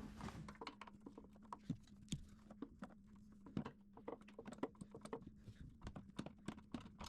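Faint, irregular clicks and taps of hand tools working on the car, several a second, over a low steady hum.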